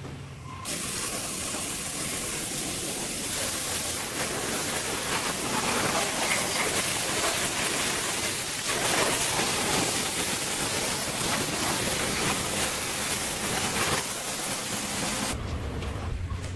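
A steady hiss starts abruptly about a second in, holds evenly, and cuts off shortly before the end.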